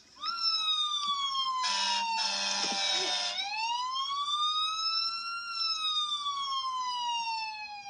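Recorded ambulance siren played by Google Assistant: a slow wail that falls, rises and falls again, with a harsh burst of noise over it about two seconds in, lasting a second and a half.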